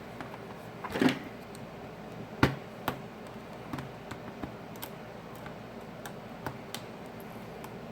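Scattered small clicks and taps of a plastic card and pry tool working under a Sony Xperia Z5 Premium's screen to loosen its adhesive, with a short scrape about a second in and a sharper click about two and a half seconds in.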